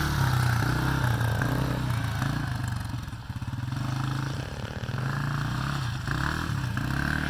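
Small off-road engine of a kid's motocross machine riding on the track, revving up and easing off so its pitch rises and falls. It drops quieter about three seconds in, then picks up again.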